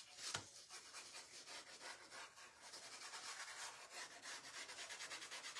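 Faint, quick back-and-forth rubbing on a craft piece at a steady rhythm of several strokes a second, with a light scratchy hiss.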